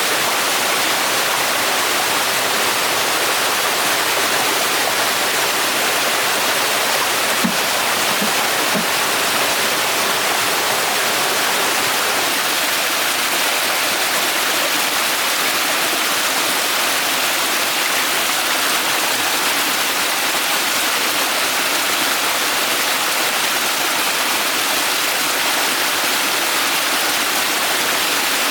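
Steady rushing of flowing water, like a stream or small waterfall, with three short faint knocks about eight seconds in.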